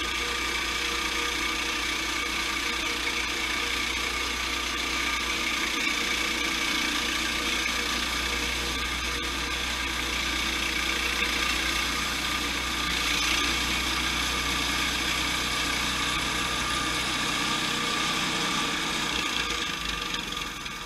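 Sawmill's engine running steadily, easing off near the end.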